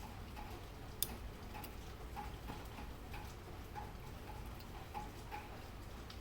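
Mauthe grandfather clock movement ticking steadily, its escapement giving a regular tick-tock, with one sharper click about a second in.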